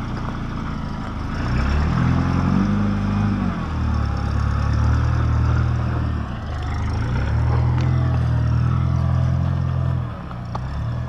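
Off-road Jeep's engine revving up about a second and a half in, then pulling under throttle in two long stretches with a brief easing off between them, and dropping back near the end.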